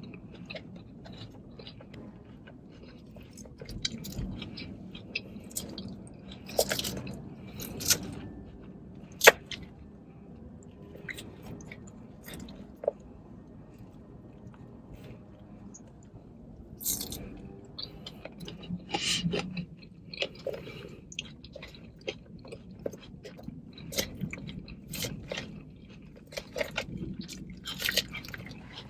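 Close-miked chewing and crunching of a Chick-fil-A market salad: irregular crisp bites and wet chewing, with one sharp click about nine seconds in.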